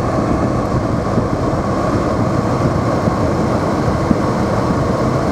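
A car driving, heard from inside the cabin: steady road and engine noise with no change in speed.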